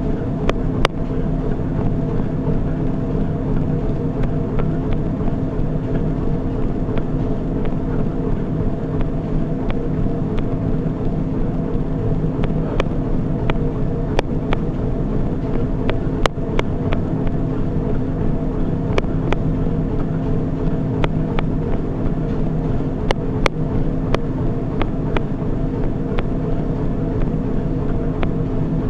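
Treadmill running: a steady motor and belt drone with a few steady hum tones, and scattered sharp clicks at irregular times.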